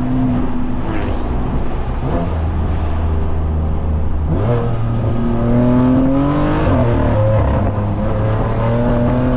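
BMW S55 twin-turbo inline-six of an F80 M3 through catless downpipes, a single mid pipe and an open valved axle-back exhaust: the engine note holds steady, then rises about four seconds in and climbs in pitch under acceleration, drops at a gear change near seven seconds, and climbs again before dropping at another shift near the end.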